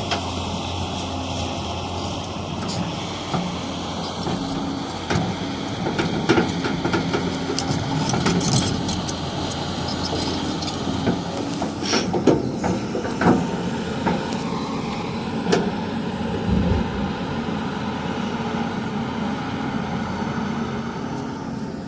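Hydraulic excavator's diesel engine running steadily, with a scatter of sharp knocks and clanks mostly in the middle stretch as the machine works.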